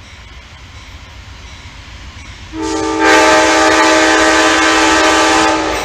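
Amtrak locomotive's air horn sounding one long chord-like blast of about three seconds, starting a little over two seconds in, over the low rumble of the slowly approaching train.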